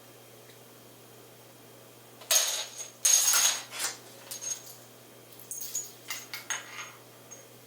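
Light metal clattering and jingling with a high ring: two loud bursts about two seconds in, then a string of smaller rattles near the end.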